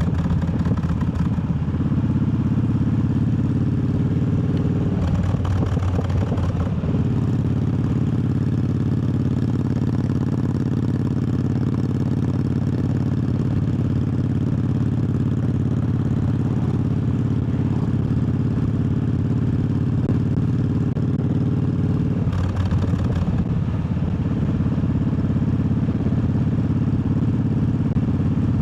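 Triumph Bobber's 1200 cc parallel-twin engine running steadily under way. Twice, about 5 and 22 seconds in, the engine note breaks up briefly before settling again.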